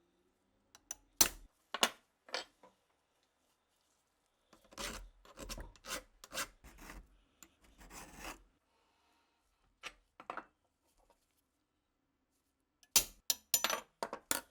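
Short rasping strokes of hand abrasive work, rubbing a part with a file or abrasive, in irregular bursts with pauses between them. There are three single strokes at first, a longer run of strokes in the middle, and a quick flurry near the end.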